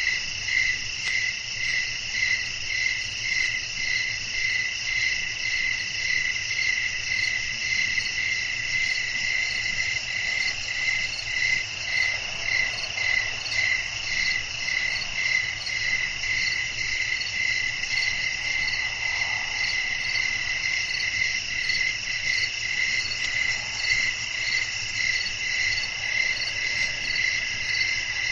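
A chorus of crickets chirping at night: a steady high trill with one voice pulsing evenly about twice a second.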